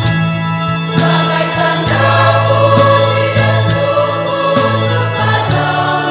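Catholic church choir singing a hymn in several-part harmony, the low voices holding long notes. Sharp taps mark a steady beat about once a second.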